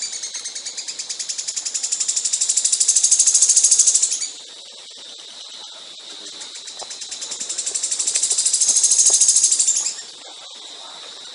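A songbird's high-pitched rapid-fire trill, many even pulses a second. It swells louder and breaks off sharply about four seconds in, then builds again and stops abruptly near the end.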